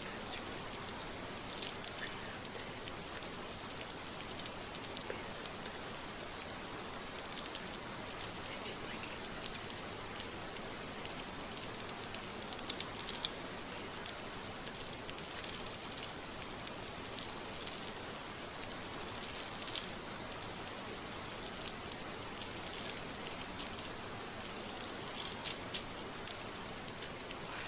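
Steady rain ambience with close-miked rustling and scratching of fingers through a mannequin head's hair, coming in short, irregular strokes that grow more frequent in the second half.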